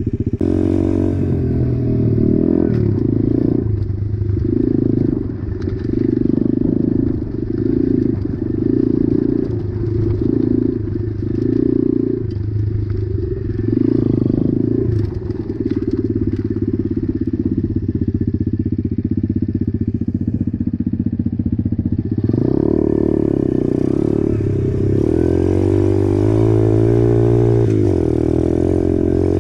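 Apollo RFZ 125cc pit bike's single-cylinder four-stroke engine running while riding, the throttle opening and closing about once a second at first, then held steadier. In the last few seconds the engine speed rises and falls repeatedly.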